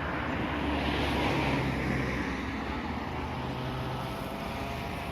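A motor vehicle passing, its engine and road noise swelling about a second in and fading away.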